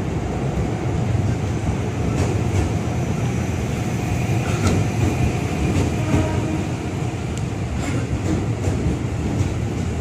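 KRL commuter electric train passing alongside the platform: a steady rumble of steel wheels on the rails, with a few sharp clicks scattered through it.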